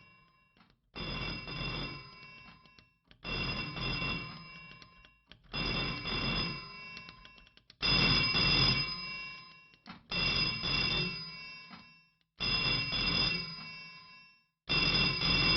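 Telephone bell ringing: seven rings, each about a second and a half long, repeating every two seconds or so with silent gaps between them.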